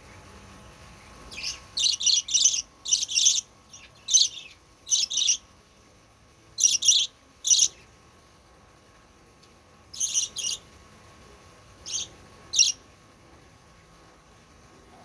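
A young burung baji bird calling in short, sharp, high notes, often in quick pairs, with pauses of a second or more between the groups.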